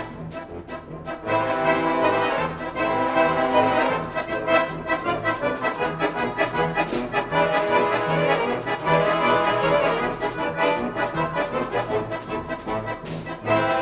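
Accordion orchestra playing together: sustained chords over a steady pulsing bass line, the full ensemble coming in louder about a second in.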